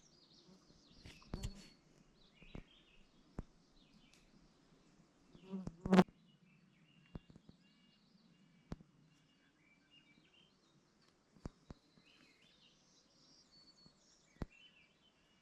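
A flying insect buzzing steadily and faintly near the microphone, with scattered sharp clicks and knocks, the loudest about six seconds in, and faint bird chirps.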